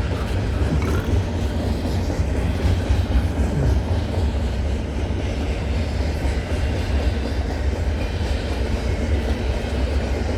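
CN intermodal freight train's container cars rolling past close by: a steady, loud low rumble of steel wheels on rail.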